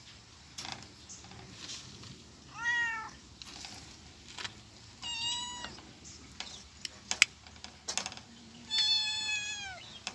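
A cat meowing three times, the last meow the longest and dropping in pitch at its end. Short sharp clicks or taps sound between the meows.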